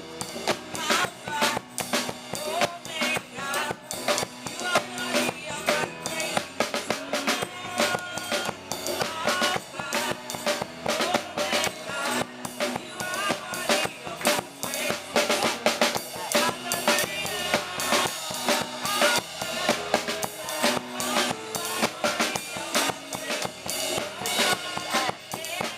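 Live gospel praise-and-worship music, a drum kit keeping a steady beat of kick, snare and rimshots under the band.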